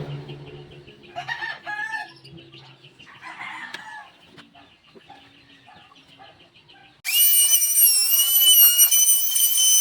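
A rooster crowing twice. About seven seconds in, a much louder, steady high-pitched whine starts abruptly, like a power tool spinning.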